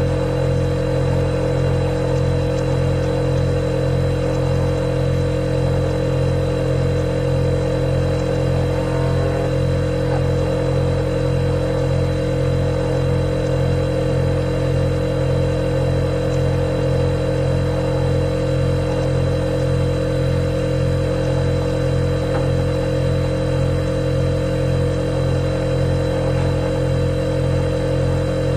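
Refrigerator compressor running with a steady, even hum and a faint high whine, unchanging throughout.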